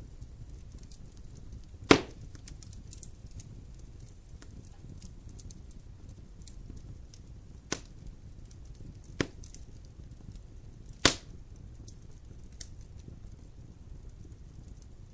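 Wood fire in a fireplace crackling, with four sharp pops, the loudest about two seconds in and another near eleven seconds.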